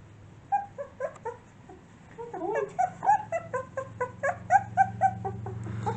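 A 17-day-old puppy whimpering and squeaking: a few short cries, then from about two seconds in a quick run of high cries, about three a second, each rising and falling in pitch. It is a neonatal puppy's distress cry, set off by being away from its mother and litter.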